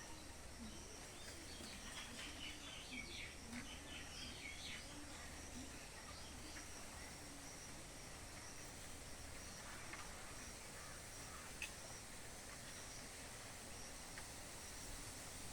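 Faint natural outdoor ambience: a steady high insect drone with scattered short bird chirps, most of them between about two and five seconds in.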